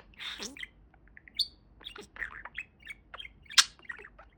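Pet budgerigar chirping and chattering: a run of quick chirps and clicks of varying pitch, with one sharp, loud chirp about three and a half seconds in.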